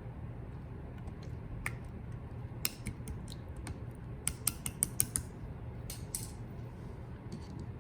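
Clear jelly slime being handled, giving sharp sticky clicks and small pops that come in clusters about three seconds in and again around five seconds in, over a steady low hum.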